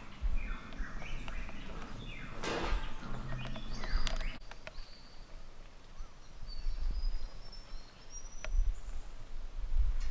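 Forest birds calling: a run of short falling chirps, a loud harsh call about two and a half seconds in, then high thin whistled notes, over an uneven low rumble.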